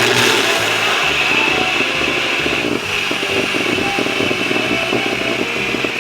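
Countertop blender running steadily, blending apple and berries in an overfilled jug, and stopping suddenly at the end. Background music with a repeating bass line plays underneath.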